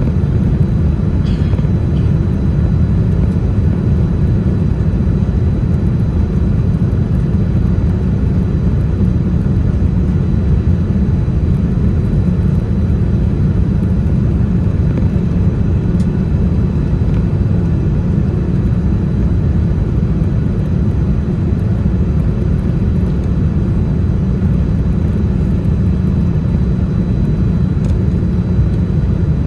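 Boeing 787-10 airliner on its landing approach: a steady, deep rumble of engine and air noise that neither rises nor falls.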